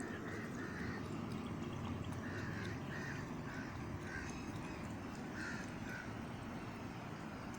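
A series of short animal calls, about ten, repeated at irregular intervals and stopping about six seconds in, over a steady low rumble.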